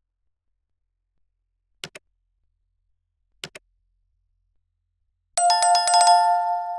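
Near silence broken by two short double ticks, then, about five and a half seconds in, a sound-effect ring with a rapid rattle, like a bell or alarm clock, that begins to fade.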